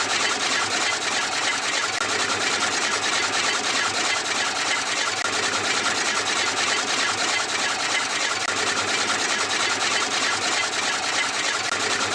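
Small electric motor running steadily with a fast buzzing whir and rattle, as in a miniature homemade chaff cutter machine at work.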